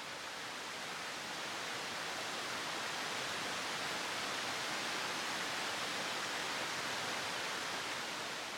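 Steady rushing water of a mountain river, swelling in gradually and fading out near the end.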